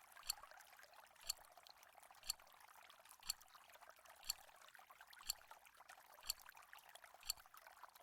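Countdown timer ticking sharply once a second over a faint steady hiss.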